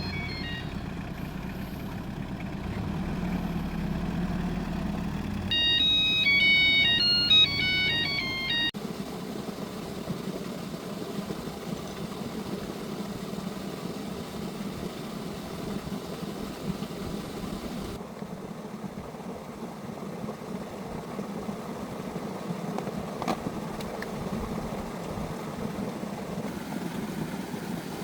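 A short electronic jingle of quick high notes, about three seconds long, over a steady low hum that shifts abruptly twice.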